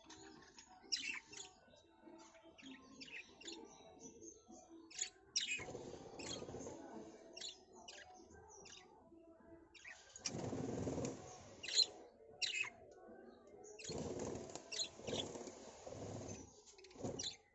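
Small birds chirping in short, high notes throughout, broken by three stretches of rushing noise, each lasting one to three seconds.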